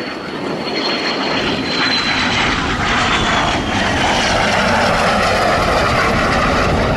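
Jet aircraft flying past: a high whine slides down in pitch during the first few seconds while the engine noise swells and stays loud.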